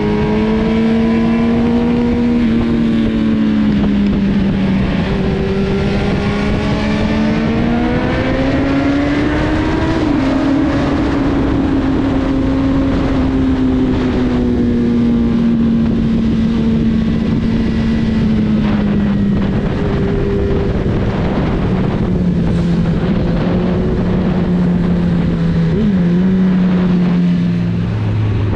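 Honda CB1000R's inline-four engine running while the bike is ridden through curves, its pitch rising and falling with the throttle and dropping sharply near the end, over steady wind and road noise.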